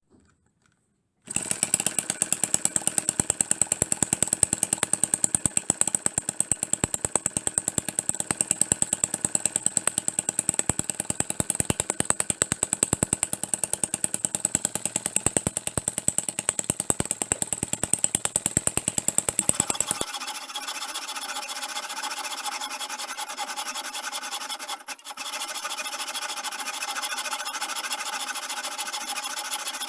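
Miniature four-stroke internal combustion engine running, with a rapid, even train of firing pulses. About 20 seconds in, the sound changes abruptly to a steadier, higher-pitched machine sound without the pulses.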